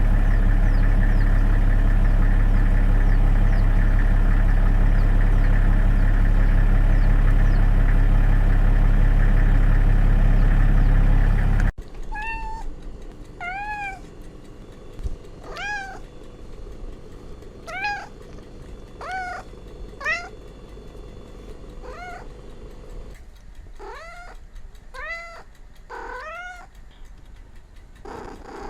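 A steady low drone for about the first twelve seconds, then a cat meowing about a dozen times, each a short call that rises and falls in pitch.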